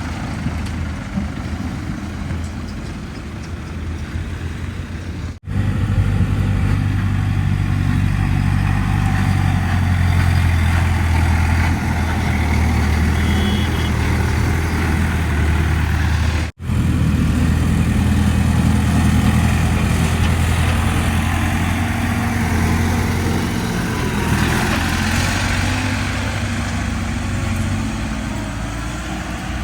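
Heavy diesel engine running steadily under load. The sound drops out abruptly for an instant twice, about five seconds in and again just past the middle, and is louder after the first break.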